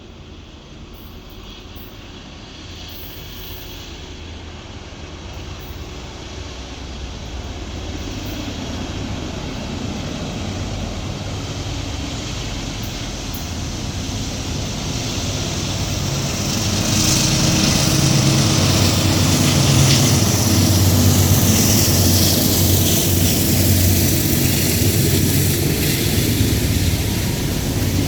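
Two GE diesel-electric locomotives, an AC44C6M and a C40-9W, each with a V16 diesel, working under power as they lead a freight train, their deep engine drone growing steadily louder as they approach. From a little past the middle the sound swells further, with a rushing hiss added on top.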